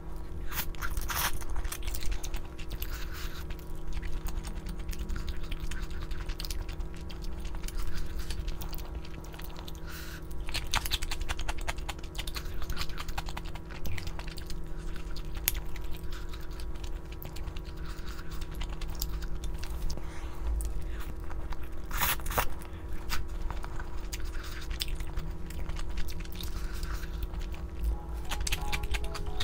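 Close-miked eating: chewing and biting food, with short clicks and scrapes of utensils.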